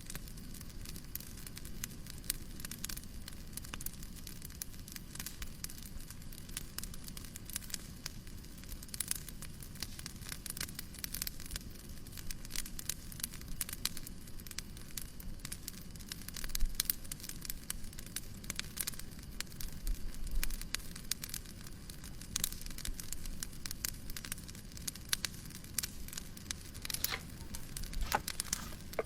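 Wood fire crackling in a fireplace: dense, irregular pops and snaps over a steady hiss, with a couple of louder low knocks midway.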